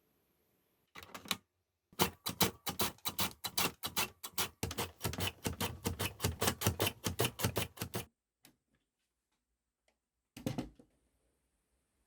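Knife chopping rapidly on a cutting board, about five strikes a second, typical of julienning zucchini. It pauses, then gives one more short run near the end.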